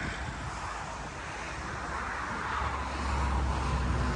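Outdoor background noise: a steady hiss, with a deep rumble that grows louder about two and a half seconds in.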